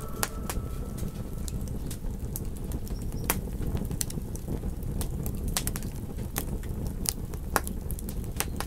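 Campfire crackling, with irregular sharp pops and snaps over a steady low rumble of burning wood. The last of a wolf howl fades out in the first second.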